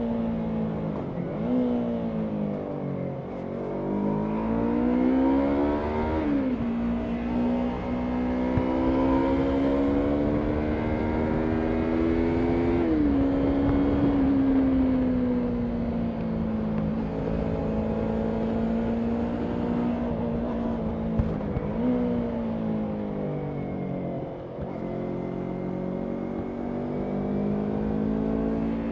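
Yamaha MT-03 motorcycle engine under way, accelerating and easing off. Its pitch climbs steadily and then drops suddenly at upshifts about 6 and 13 seconds in, and it falls away as the bike slows near the start and again a little after 20 seconds.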